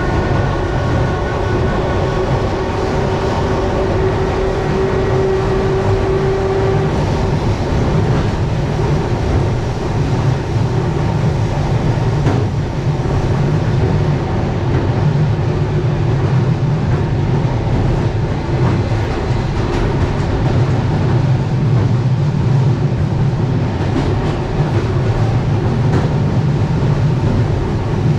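Suburban electric train running, heard from inside the carriage: a steady rumble of wheels on rails with a few faint rail-joint clicks. A steady humming tone from the train's equipment fades out about a quarter of the way in.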